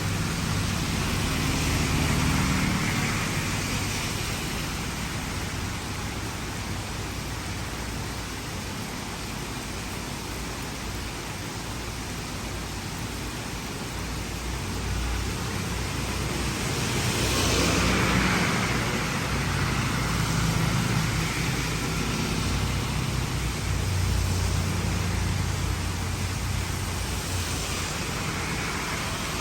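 Steady hiss of heavy rain, with road vehicles passing one after another on a flooded street, each swelling and fading with engine rumble and the wash of tyres through water; the loudest pass comes a little past the middle.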